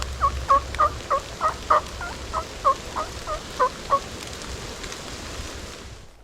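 Turkey yelping: a run of about fourteen short yelps, each breaking from a higher note to a lower one, about three a second, stopping about four seconds in.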